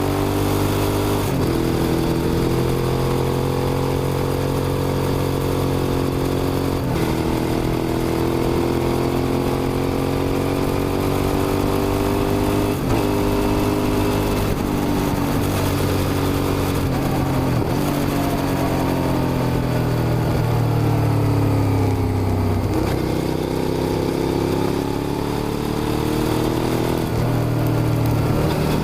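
Suzuki SV650's V-twin engine running under way, its pitch rising and falling as the bike is ridden, with a sudden break in the engine note every few seconds as gears change.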